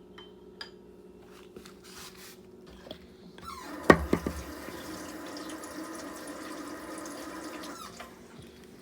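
Kitchen tap running for about four and a half seconds and then shut off, with a sharp knock just as it starts. A few small clicks and knocks come before it.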